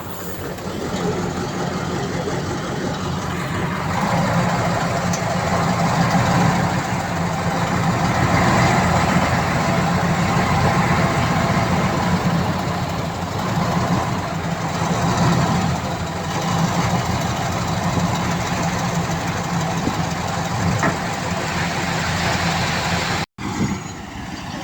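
Heavy diesel engine of earthmoving machinery running steadily, growing louder over the first few seconds, with a brief dropout near the end.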